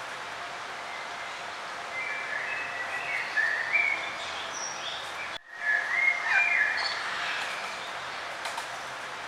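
Birds singing in short chirping phrases over a steady background hiss of outdoor ambience. About halfway through, the whole sound drops out for an instant.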